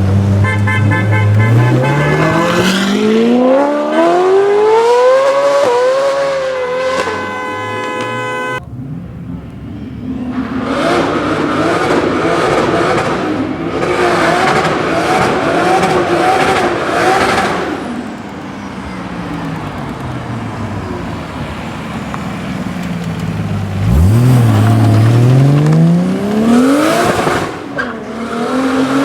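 Modified performance car engines accelerating hard, pitch climbing steeply through the revs, in several separate clips joined by abrupt cuts. In the middle stretch the engine sound rises and falls repeatedly, as through gear changes.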